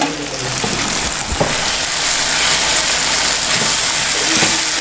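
Food sizzling as it fries in a pan on a gas stove, a steady hiss, with a single short knock about a second and a half in.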